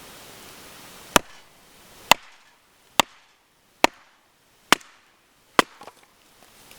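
Six sharp chopping strikes on wood, evenly spaced just under a second apart, each a hard knock with a short ring.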